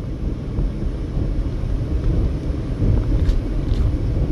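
Steady low rumble of a car driving at highway speed: road and tyre noise with engine drone.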